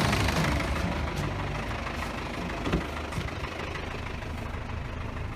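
Isuzu D-Max pickup engine idling steadily, with a few faint clicks over the running.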